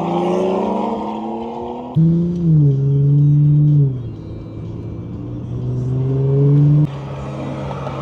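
Supercar engine accelerating hard, its pitch climbing and then dropping with each gear change. It gets loudest about two seconds in and cuts off sharply near the end.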